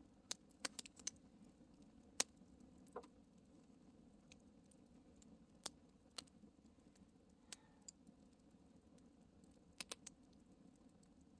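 Wood campfire crackling: sparse, sharp pops and snaps at irregular intervals over a faint low hiss, the loudest snap about two seconds in.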